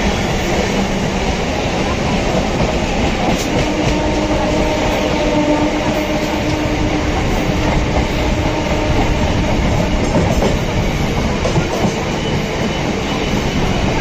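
Indian suburban electric local (EMU) trains running side by side: a steady loud rumble of steel wheels on the rails with a clickety-clack of clicks over the rail joints. A faint steady whine comes in for a few seconds in the middle.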